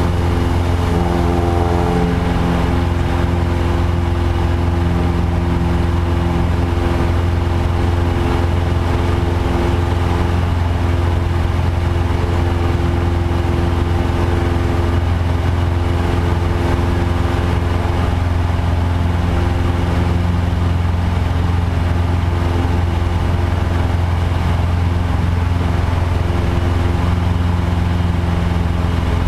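Light aircraft's piston engine and propeller running at a steady, unchanging drone, with no sign of throttle changes.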